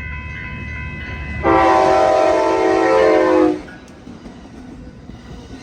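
Passenger train passing, with the locomotive horn sounding one long blast of about two seconds, a chord of several steady pitches, about a second and a half in. After the horn the train's running carries on as a lower, quieter rumble.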